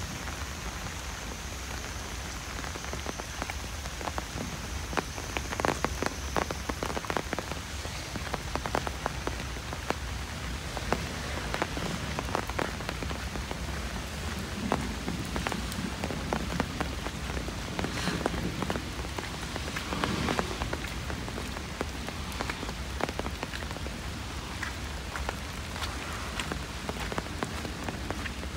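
Light rain falling steadily on foliage and a wet paved path, with many close drops tapping at irregular moments.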